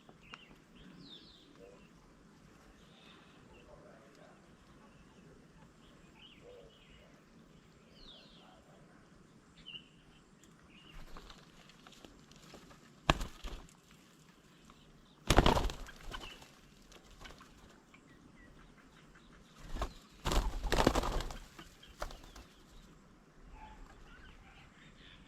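Birds' wings flapping close by in a few short, loud bursts, first about halfway through and again a few seconds later, with faint bird chirps earlier on.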